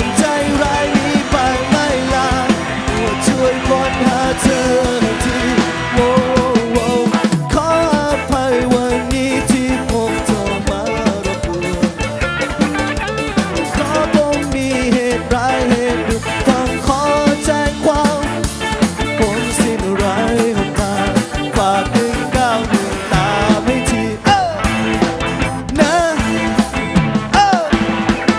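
A live rock band playing, with a drum kit keeping the beat under a wavering lead melody.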